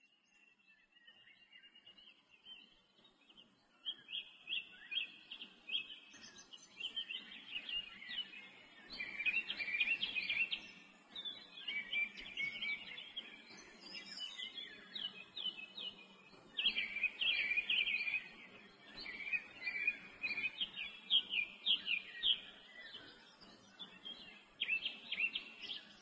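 Small birds chirping and twittering, many quick high calls and trills overlapping, fading in over the first few seconds and then going on busily.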